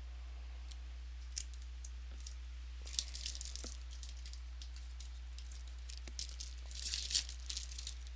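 Trading cards and their packs being handled: short crinkles and rustles, one around three seconds in and a louder cluster near seven seconds. A steady low electrical hum runs underneath.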